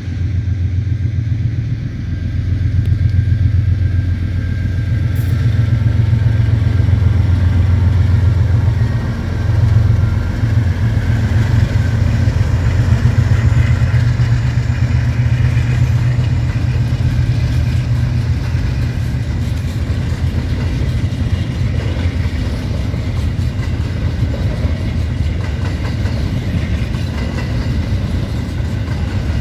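A diesel-electric freight train passing: the locomotives' engines run with a heavy, steady low drone, which eases after about 18 seconds as the grain hopper wagons roll by with a continuous rumble of wheels on rail.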